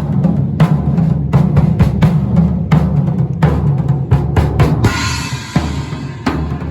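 Drum kit played in a fast solo: rapid snare and bass drum strikes, with a cymbal crash ringing about five seconds in.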